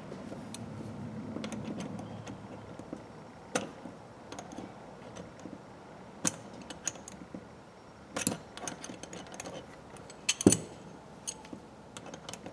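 Scattered small metal clicks and taps as the parts of a small 1/4-inch ratchet are handled and worked on with hand tools, while a stuck pin is being freed. The sharpest, loudest clack comes about ten and a half seconds in.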